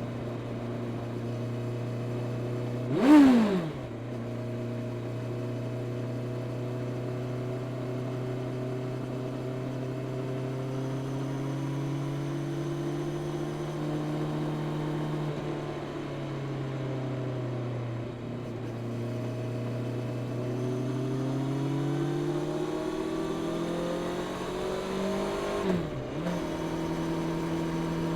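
Honda CB650R inline-four engine with its stock exhaust, cruising steadily. Its pitch eases down and back up, then climbs under acceleration before a quick drop near the end as it shifts up a gear. About three seconds in, a brief loud whoosh with a falling pitch sweeps past.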